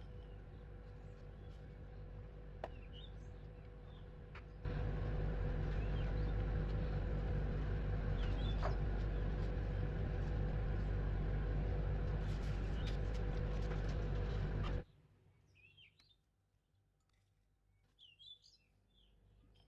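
Small birds chirping in short calls over a low steady hum. About five seconds in, a much louder steady mechanical noise switches on abruptly, runs for about ten seconds, and cuts off suddenly, leaving the chirps.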